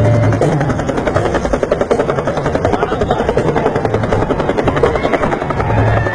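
Helicopter rotor beating close by in rapid, even pulses, loud and steady.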